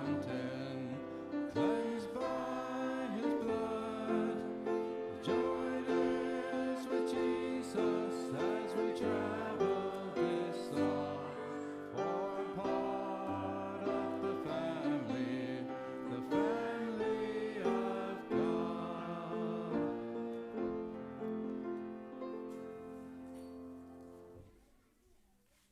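Church music: singing with instrumental accompaniment, fading out near the end.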